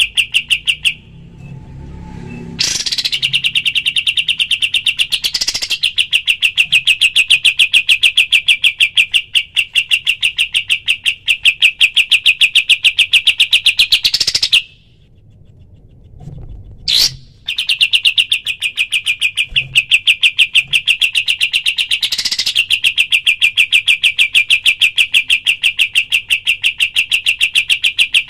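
Kapas tembak songbird singing its rapid-fire 'tembakan' song: long, fast, even runs of the same high note repeated many times a second, each run opening with a quick upward sweep. The runs break off twice for a second or three before starting again.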